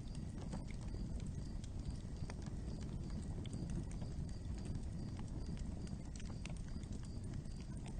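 Wood fire crackling, with scattered irregular pops and snaps over a low, steady rumble of burning.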